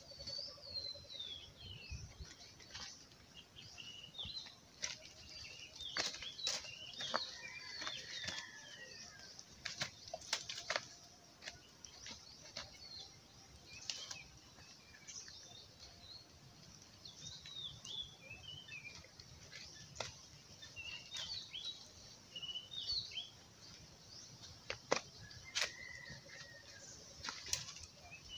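Wild birds chirping and calling in short, quick notes, with scattered sharp clicks and rustles throughout.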